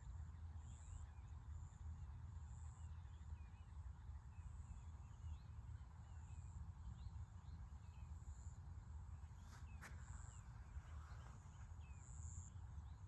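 Faint birds calling in open country: many short chirps, with a thin high note repeating about once a second, over a low steady rumble. A single sharp click sounds about ten seconds in.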